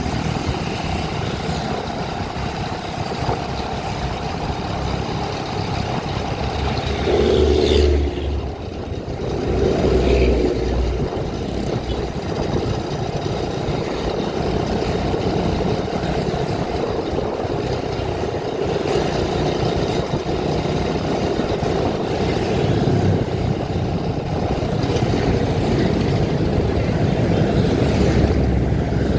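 Vehicle driving along a road: steady engine and road noise, with two louder low rumbles about seven and ten seconds in.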